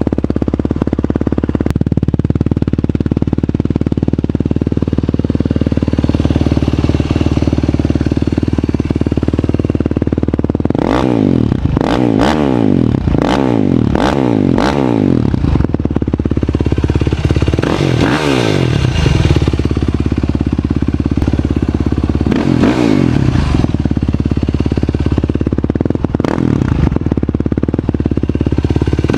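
Yamaha YFZ450R's single-cylinder four-stroke engine through a Yoshimura RS-2 muffler, idling steadily for about ten seconds, then revved up and down in a quick run of about five blips. Single revs follow every few seconds.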